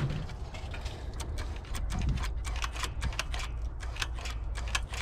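Quick irregular metallic clicks as the throttle linkage of a Holley carburetor is worked by hand, pumping the accelerator pump to check that it sprays fuel. A low steady hum runs underneath.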